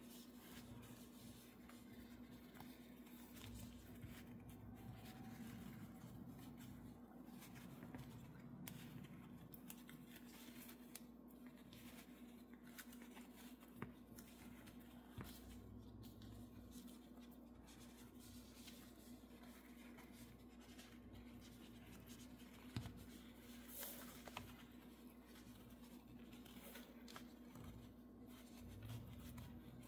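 Near silence: faint rustling and scratching of hand work, with a few small clicks over a low steady hum.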